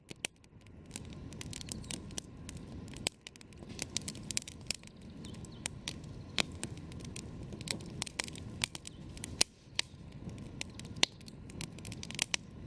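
Wood campfire crackling: irregular sharp pops and snaps, several a second, some louder than others, over a low steady rush of the burning fire.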